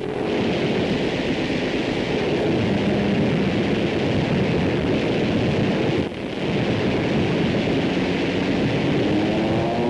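Steady rushing noise of an aircraft engine drone in newsreel battle sound, with a faint droning tone that slowly drifts in pitch and a brief dip about six seconds in.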